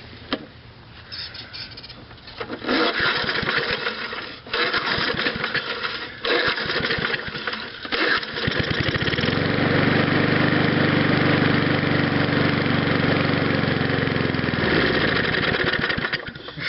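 Old 3 hp Briggs & Stratton engine on a Snapper Hi-Vac mower being pull-started three times with the recoil starter, cranking and sputtering. About nine seconds in it catches and runs steadily for around six seconds, then dies out. It is running on fuel from a badly gunked gas tank after sitting for some fifteen years.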